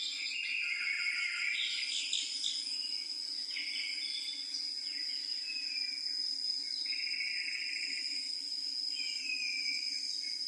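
Outdoor nature sound: insects trilling in one steady, high, unbroken note, with birds singing short warbling and sliding phrases over it.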